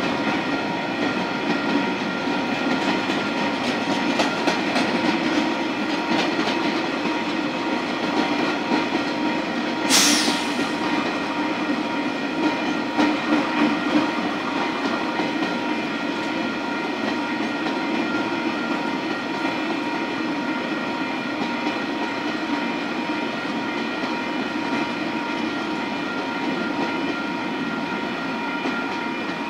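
Flatbed freight wagons rolling through a level crossing: a steady rumble with the wheels clacking over rail joints, loudest in the first ten seconds, and the crossing's warning bell ringing throughout. A brief high screech, falling in pitch, about ten seconds in.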